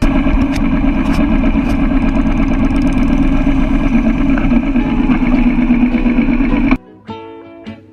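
Motorcycle engine running steadily, loud and unchanging, cutting off suddenly about seven seconds in.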